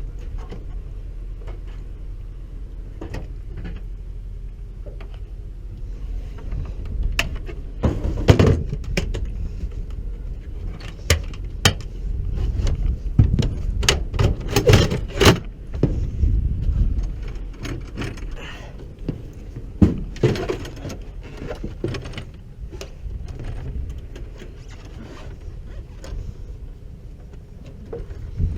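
Irregular metallic clicks, knocks and jingling from parts and hardware being handled, busiest in the middle stretch, over a steady low rumble.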